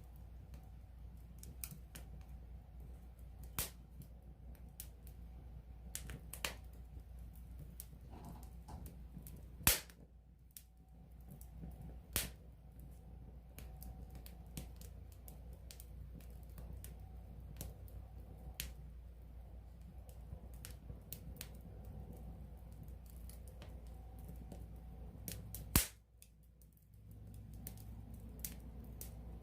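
Wood campfire crackling up close: frequent sharp pops and snaps over a low, steady rumble. The two loudest pops come about ten seconds in and near the end.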